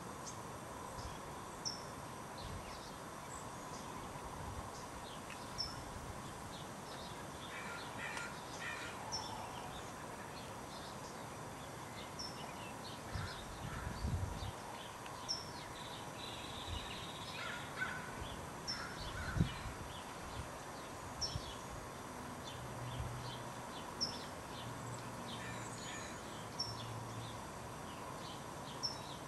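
Wild birds calling: a short, high chip note repeats every second or two throughout, with bursts of harsher calls several times. A couple of low thumps, the louder one about two-thirds of the way through.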